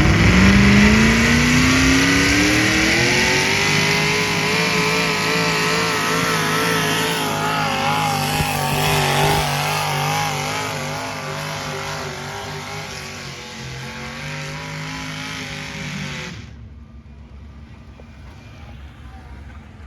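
Engine of a pulling vehicle on a pull run, revving hard with its pitch climbing over the first few seconds, then holding and wavering while it slowly fades. The sound cuts off abruptly about sixteen seconds in, leaving a low background.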